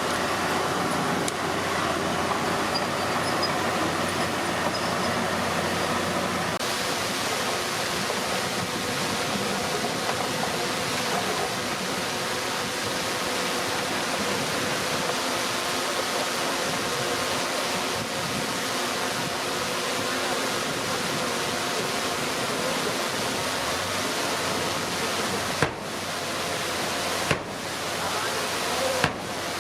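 Diesel engine of earthmoving machinery running steadily under a heavy hiss of noise, with three brief clicks near the end.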